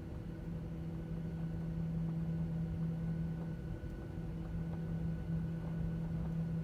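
Steady cabin hum inside a Boeing 737-900ER on the ground after landing: an even low drone with a constant tone over a rumble.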